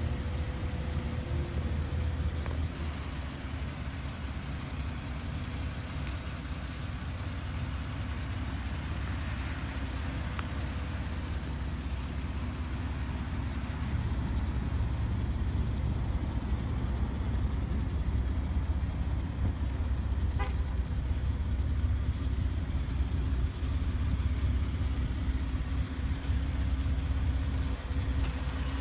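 2006 Jeep Wrangler X's 4.0-litre straight-six idling steadily, a low rumble that grows a little louder about halfway through. A single short click about two-thirds of the way in.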